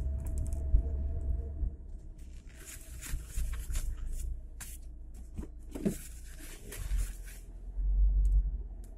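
Lada Niva driving slowly over a rough, potholed road, heard from inside the cabin: a low rumble with clusters of rattles and knocks as it jolts over the holes.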